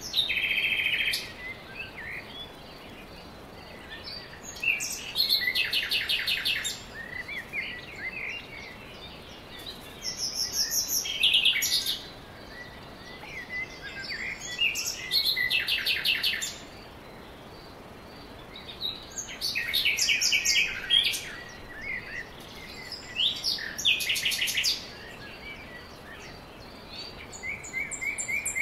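A songbird singing short phrases of rapid, trilled high notes, repeated about every four to five seconds, over a steady faint hiss.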